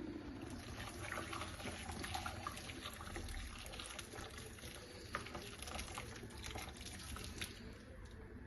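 Faint water trickling and splashing, with many small clicks and light clinks of things being handled, as in washing up or rinsing at a sink.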